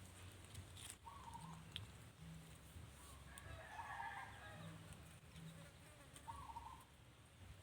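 Faint, short chirping animal calls, a few seconds apart, with a brief cluster of higher calls about halfway through, over a low steady hum.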